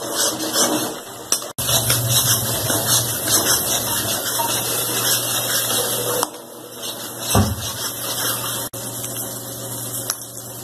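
Wet spice masala paste sizzling and spitting in hot oil in a kadhai, with a steel spatula stirring and scraping against the pan. The sizzle is steady, with a few brief dropouts.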